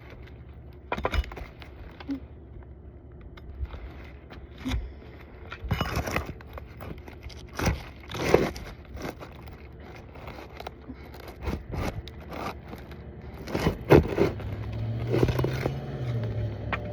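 Asphalt architectural shingle scraping and crackling as it is worked loose from a stubborn nail, in irregular strokes with a few sharper knocks.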